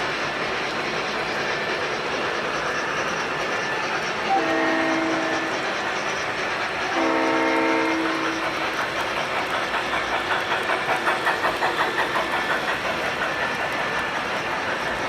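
Model trains running on a layout, with a steady rumble of motors and wheels on track; a sound-equipped model locomotive blows its horn twice, a short blast and then a slightly longer one, followed by a rhythmic pulsing of about four beats a second.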